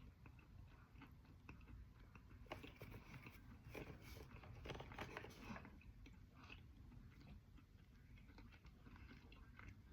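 A person chewing crunchy dry edible clay, faintly. A dense run of crunches comes from about two and a half to nearly six seconds in, then sparser, softer crunching.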